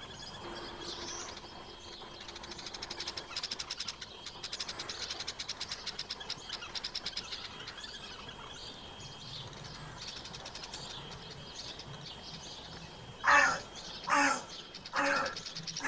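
Wild birds chirping and trilling, with four loud calls about a second apart near the end.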